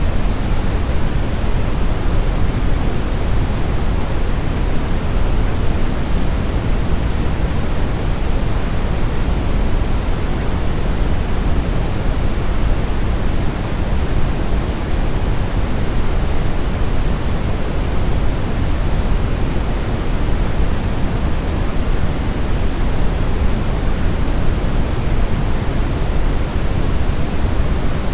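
Steady brown noise: an even, unchanging rush weighted heavily toward the low end, with no tones or events.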